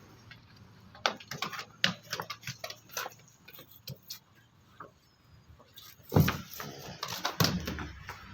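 A series of irregular clicks and knocks, with two louder, deeper thumps in the last couple of seconds.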